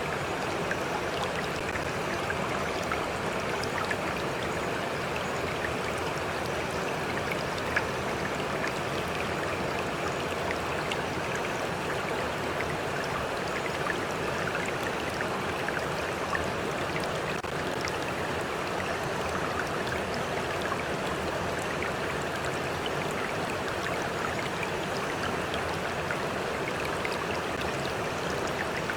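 Stream water running steadily over rocks, an even rushing with small splashes and drips scattered through it.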